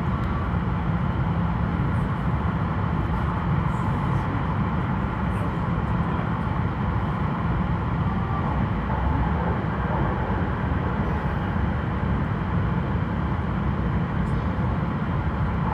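E5-series Shinkansen train running at reduced speed, heard from inside the car: a steady, low running rumble.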